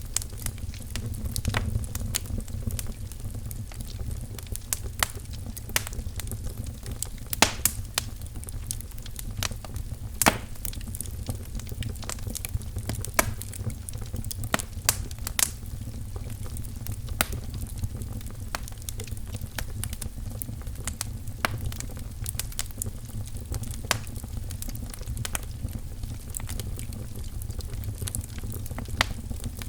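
Wood fire crackling in a fireplace: a steady low rumble of flame with irregular snaps and pops, a few of them louder.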